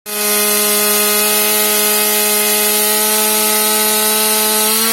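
Small two-stroke chainsaw engine held at high, steady revs while cutting wood, with the chain rasping through the cut.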